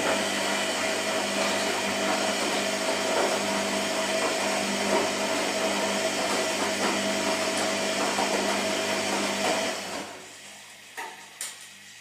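Washing machine running with a steady whirring hum for about ten seconds, then stopping, followed by two short clicks near the end.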